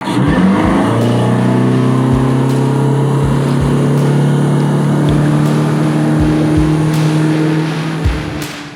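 Yamaha F150 four-stroke outboard running steadily under way, its pitch rising briefly at the start, with low thuds at uneven intervals underneath. The engine sound fades out near the end.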